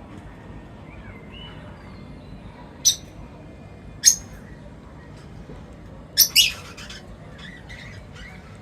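Birds chirping: a few short, sharp chirps about three and four seconds in and a quick pair just past six seconds, with fainter calls between, over a steady low background noise.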